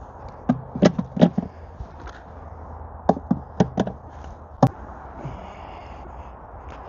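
Sharp wooden knocks and taps from beehive parts being handled: frames and boxes bumping against each other. They come in two quick clusters of four or five, then a single knock just past the middle.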